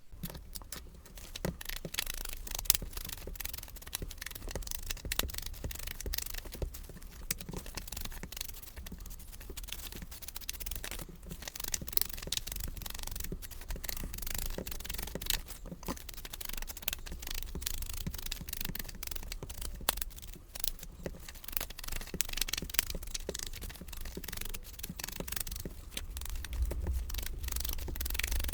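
Distress Oxide ink being rubbed around the edges of paper pages: rapid, continuous scratchy scrubbing strokes of the ink pad or blending tool against the card.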